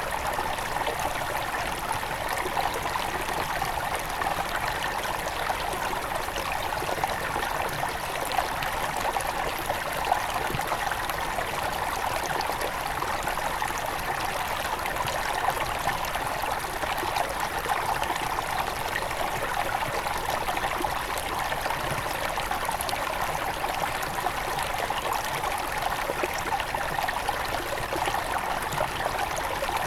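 Small headwater river flowing and trickling over stones, a steady babbling rush of water.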